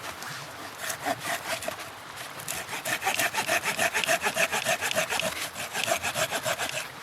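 Hand saw cutting through wood in quick, even back-and-forth strokes, about four or five a second, starting slowly about a second in and picking up pace a couple of seconds later.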